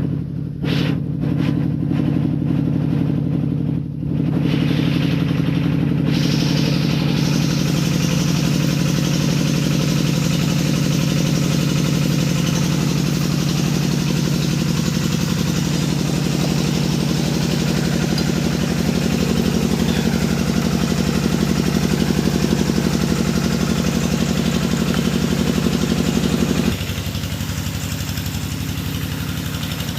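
Engine of a hydraulic deep-well drilling machine running steadily with a low hum. About four seconds in, a louder, hissing layer of machine noise joins and holds. Shortly before the end it drops back to a quieter run.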